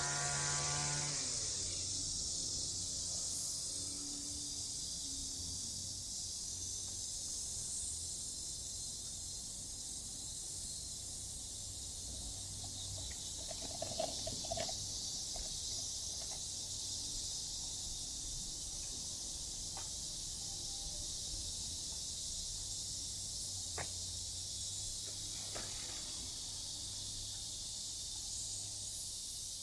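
Cicadas buzzing in a steady, high-pitched chorus from the park trees, with a faint low hum underneath.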